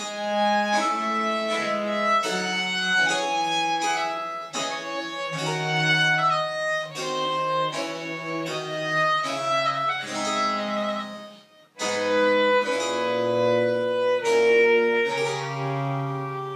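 A Baroque chamber ensemble playing French Baroque music: a bowed-string melody over long, held bass notes, with some plucked strings. The playing breaks off briefly about twelve seconds in, then resumes.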